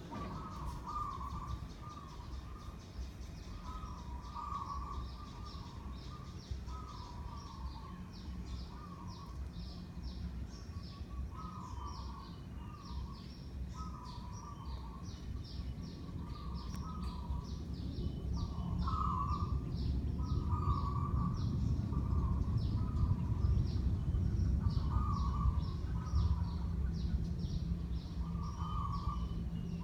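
Birds calling: a short call repeated every second and a half to two seconds, with fast high chirping, over a low steady hum and rumble that grows louder about halfway through.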